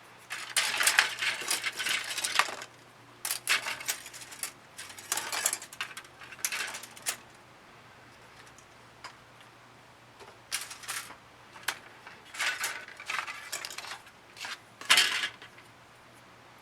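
Small hard objects clattering and rattling as they are handled, in three bursts of quick clicks with quiet pauses between them.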